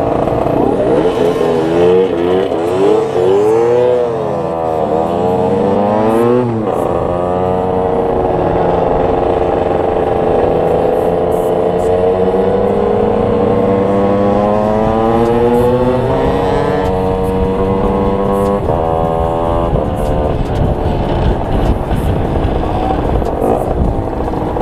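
Derbi DRD 50cc two-stroke motorcycle with a Euro 3 engine being ridden. The engine note climbs and drops again and again, falling sharply at gear changes about a third of the way in and again past the halfway mark, with long steady pulls in between.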